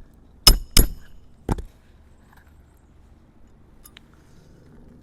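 Hammer blows with a metallic ring, driving a roofing nail into a replacement asphalt shingle with a roof snake tool. Two sharp strikes come about half a second in, a third of a second apart, and a lighter third strike follows about a second later.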